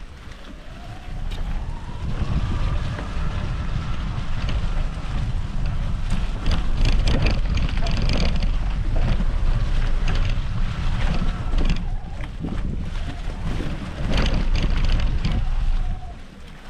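Electric mountain bike ridden over a rough forest trail: wind buffeting the microphone, the motor's whine rising in pitch in the first few seconds and again near the end, with knocks and rattles from tyres and frame over the ground.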